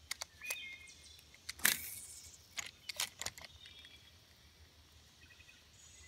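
Faint bird chirps in the background, with a few sharp clicks and taps, the loudest about one and a half seconds in.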